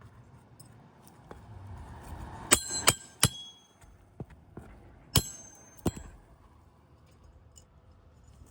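Hammer driving roofing nails to fasten a replacement asphalt shingle: a short scraping sound, then three quick, sharp, ringing metal strikes and two more about two seconds later.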